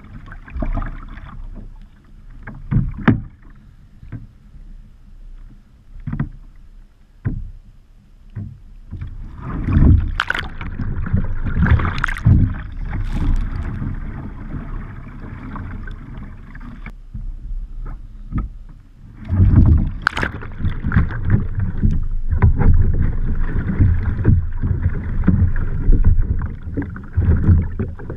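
Water splashing and sloshing around a kayak and paddle. Scattered short splashes and knocks come first. Then comes a long stretch of heavy churning splashing, and it starts again later with another loud surge.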